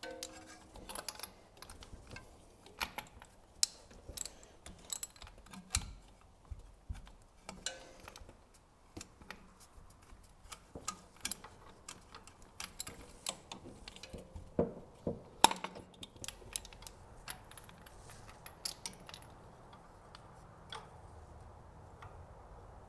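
Irregular metallic clicks and clinks of hand tools and spark plugs being handled during spark plug removal from an old engine, with a sharper knock about two-thirds of the way in.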